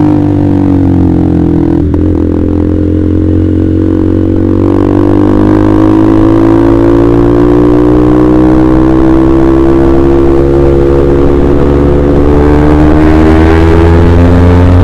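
Honda CBR150R's single-cylinder engine running through a KJ Pro aftermarket exhaust while riding. The pitch dips about two seconds in, then climbs steadily as the bike accelerates.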